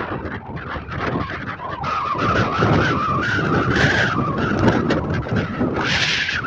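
Strong gusty wind rumbling and buffeting the microphone, with a wavering higher tone through the middle.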